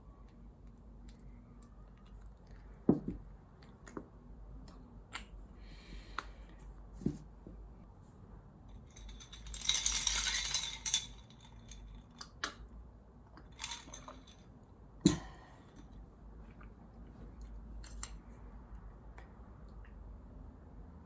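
Dishes and cutlery clinking and knocking now and then, with a short burst of hissing noise about ten seconds in.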